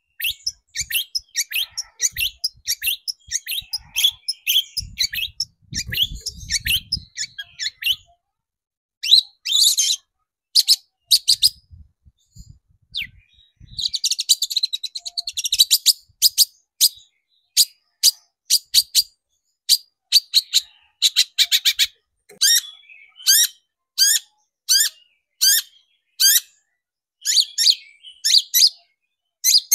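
Long-tailed shrike (cendet) singing: fast, sharp, high chattering phrases broken by short pauses, then a string of separate loud sharp calls at about one and a half a second.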